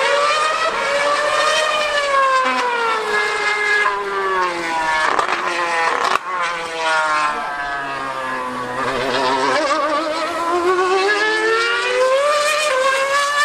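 Formula One car running on the circuit, its high, screaming engine note falling and then rising again over several seconds, with a few abrupt breaks in the note about four to six seconds in.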